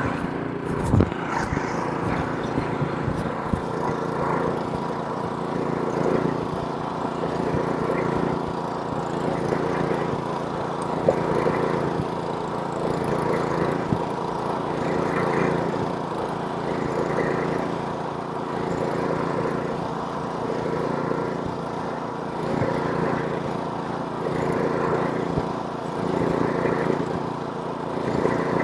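Snowblower's small gasoline engine running steadily while clearing snow, its sound swelling and easing every couple of seconds.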